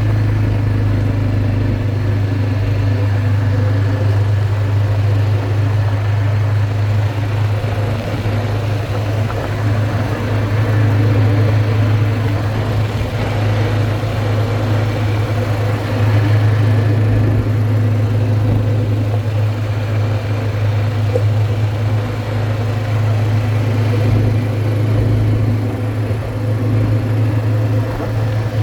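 Quad bike engine running at a steady speed during a ride, a loud, even drone with little change in pitch.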